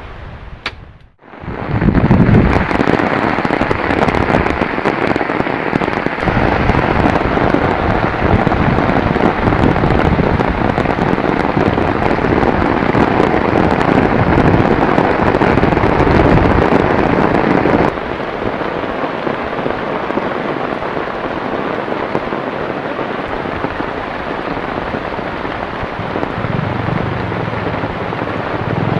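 Heavy rain pouring down in a steady, dense hiss. It breaks off for a moment about a second in, and it comes back slightly quieter a little past halfway.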